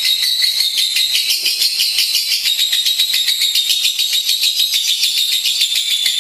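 Lovebird singing a continuous, high-pitched chattering trill of fast repeated notes without a break.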